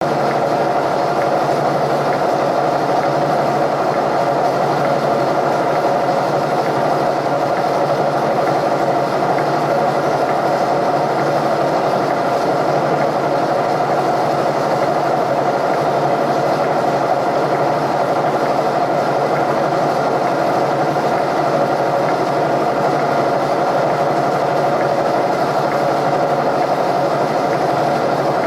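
Milling machine running steadily, boring out a worn hole with a single-point boring bar.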